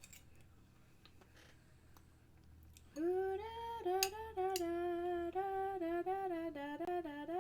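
A woman humming a tune with held notes that step up and down, starting about three seconds in after a few seconds of near quiet.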